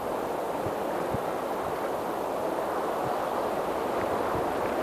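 Floodwater in a wadi rushing with a steady, continuous noise.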